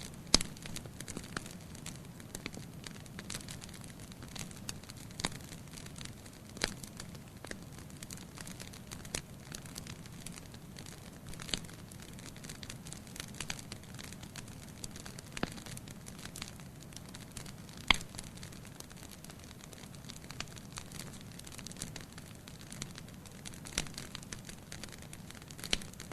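Wood fire in a fireplace crackling, with irregular sharp pops of burning firewood over a steady low hiss of the flames; two louder pops, one about a second in and one about two-thirds of the way through.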